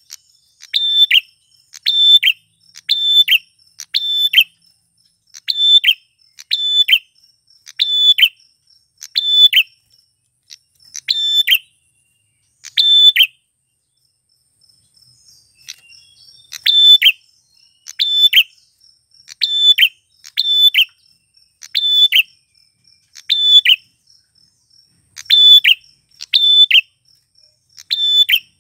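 Male prenjak klawu (a prinia) calling in a recording: a sharp chirp repeated about once a second, broken by a pause of a few seconds midway. A faint steady high buzz runs underneath.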